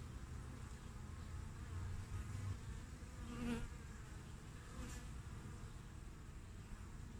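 Honey bees buzzing at the hive entrance: a steady low hum of many bees, with single bees flying close past about three and a half seconds in and again more faintly near five seconds.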